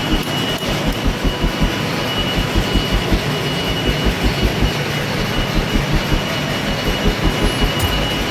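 Heavy machinery running steadily, with an even low thumping about five times a second under a constant high whine, typical of a ship's engine room.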